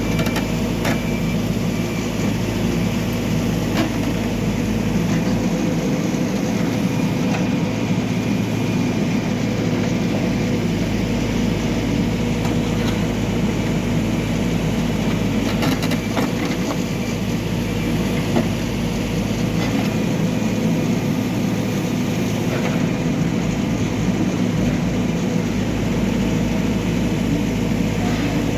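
Backhoe loader's diesel engine running steadily, with a few short knocks scattered through it.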